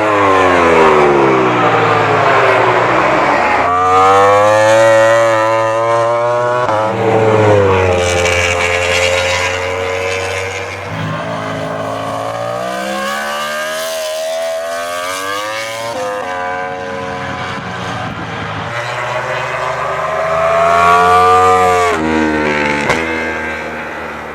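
Yamaha YZR-M1 MotoGP racing motorcycle, its inline-four engine revving high and dropping away over and over: the pitch falls as it slows, then climbs again in steps through the gears, several times in a row.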